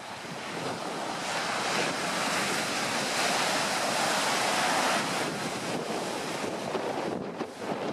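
Storm waves breaking on the shore, with strong wind buffeting the microphone. The surf noise swells about a second in, is loudest through the middle and eases off near the end.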